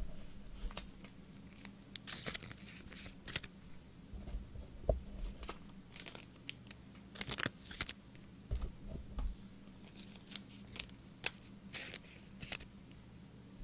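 Foil trading-card pack wrappers crinkling and tearing open, with cards handled between them, in scattered short rustles.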